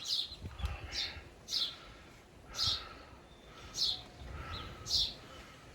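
Hand saw cutting through wood, a short rasping stroke about once a second in a steady rhythm.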